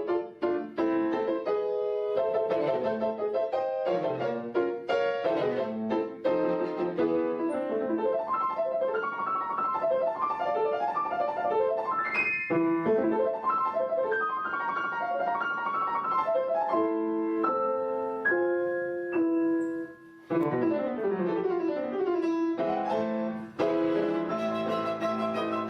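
Piano music, a flowing melody of struck notes with a short break about twenty seconds in.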